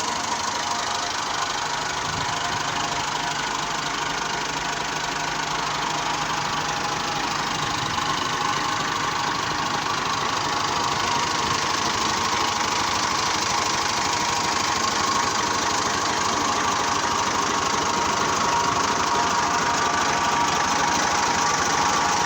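Massey Ferguson 240 tractor's three-cylinder diesel engine running steadily, growing slightly louder over the stretch.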